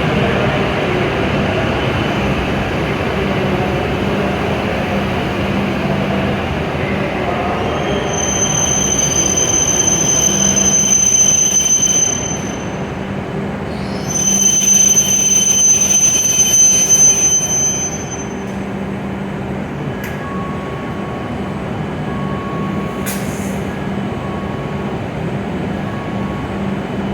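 Hokuriku Shinkansen train moving slowly along the platform with a steady rumble. A high, steady squeal rises over it twice, each time for about four seconds. Near the end, short beeps repeat about once every second and a half.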